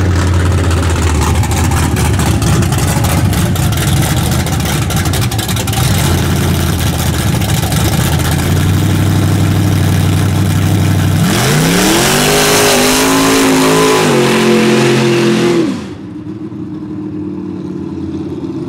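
Performance car's engine on a full-throttle street test run, running loud and steady at high revs with the rear tires spinning. About eleven seconds in, the pitch climbs through a couple of steps, then drops sharply as the throttle is lifted, leaving a quieter engine.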